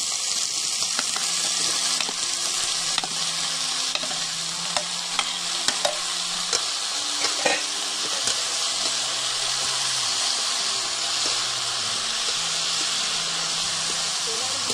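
Raw banana pieces sizzling in hot oil in an iron kadai, just tipped in and being stirred with a perforated spatula. A steady hiss of frying runs throughout, with a few sharp clicks and scrapes of the spatula against the pan around the middle.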